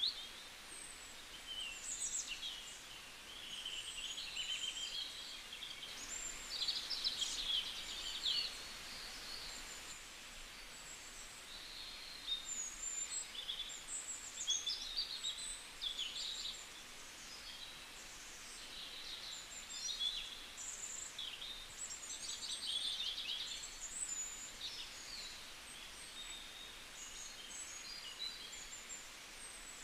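Small birds chirping and twittering, many short calls throughout, over a faint steady hiss.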